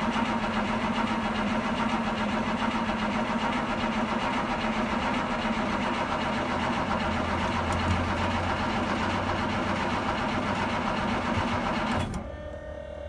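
2000 International 4700 dump truck's diesel engine idling steadily just after a cold start. About twelve seconds in, the engine sound stops abruptly and a quieter steady hum is left.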